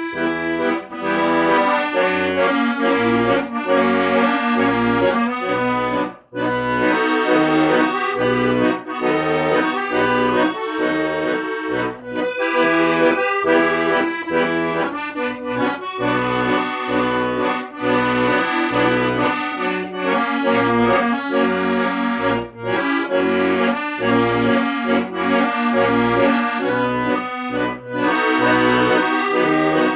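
Accordion playing a melody over a steady rhythm of bass notes, with a brief break about six seconds in.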